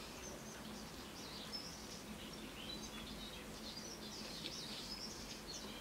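Faint birdsong: scattered short, high chirps and twitters, over a low steady hum.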